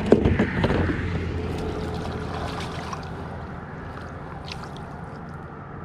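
Water splashing and trickling against a fishing kayak, loudest in the first second, then settling into a steady wash that slowly fades, with a few light clicks.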